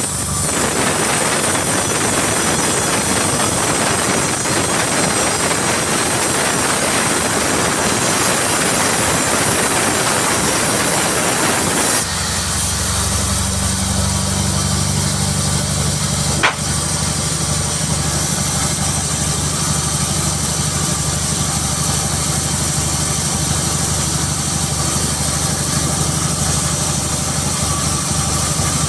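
Sawmill saw cutting through a jackfruit log with a loud, even rasping noise. About twelve seconds in, the sound changes abruptly to the machinery running on with a steady low engine hum, with one sharp click a few seconds later.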